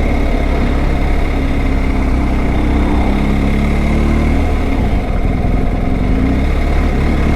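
Motorcycle engine running while riding, over a heavy low rumble; the engine note rises and dips slightly with the throttle.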